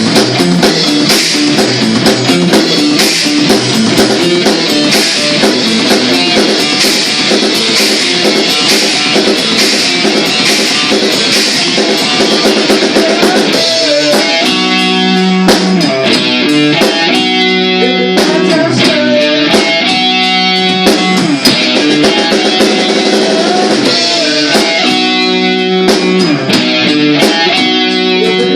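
Rock band playing loud, with electric guitar and drum kit. About halfway through, the dense wash of sound gives way to a riff of clearer, separate notes.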